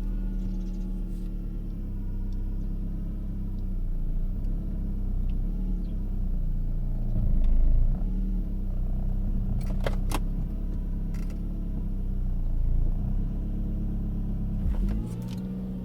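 Saab 9-5 2.0t turbocharged four-cylinder engine running with a loud whine that changes with engine speed. The owner suspects the whine comes from a belt-driven accessory, most likely the power steering pump, rather than a clogged oil pickup. A couple of sharp clicks come about two-thirds of the way through.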